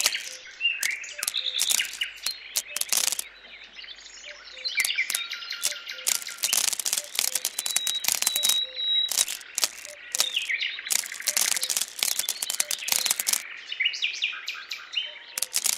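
Small birds chirping repeatedly, over many irregular sharp clicks of dried mung beans being dropped onto the diorama's sand bed.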